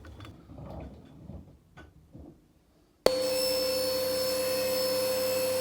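Faint handling noises and light clicks, then about three seconds in an electric power tool's motor starts suddenly and runs at a steady, even pitch.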